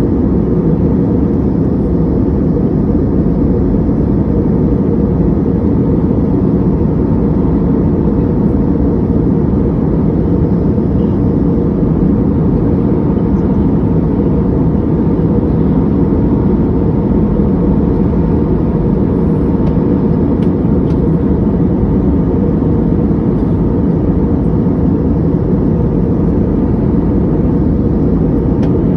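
Steady low rumble of a jet airliner cabin in cruise: engine and airflow noise, heard from inside the cabin.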